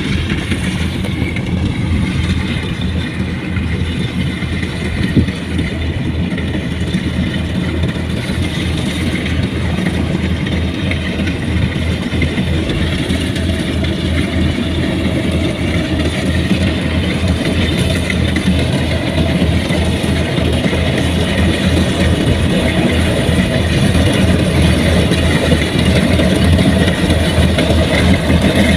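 Diesel engine of heavy farm machinery running steadily and close, growing a little louder toward the end.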